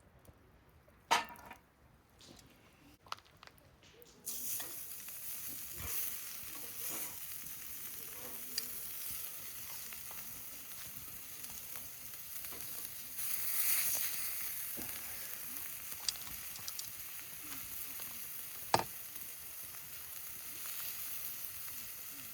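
Beef steak sizzling on a hot iron griddle over a campfire. The sizzle starts suddenly about four seconds in and then carries on steadily, with a sharp knock about a second in and a few clicks along the way.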